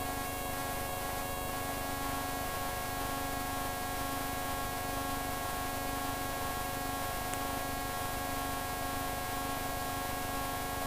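Steady in-flight drone of a microlight's engine, an even hum of several held tones over a constant hiss.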